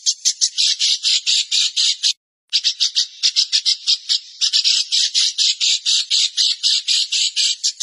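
A songbird calling in a rapid, even series of harsh, scratchy notes, about six a second. The calls break off completely for a moment about two seconds in, then resume.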